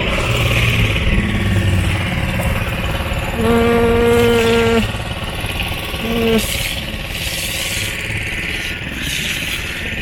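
Steady engine-like running noise, over which a horn sounds twice: one long blast of about a second and a half, then a short toot about two seconds later.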